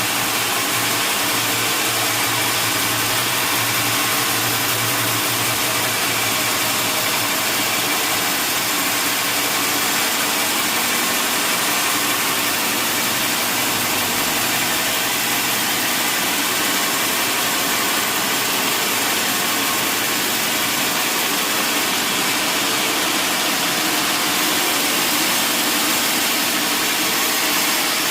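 Sawmill machinery running steadily: a loud, even, noisy drone with faint steady tones and no breaks.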